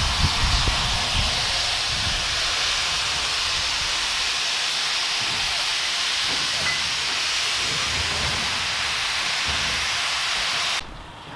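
A steam locomotive venting steam: a loud, steady hiss with no beat to it, which cuts off suddenly near the end.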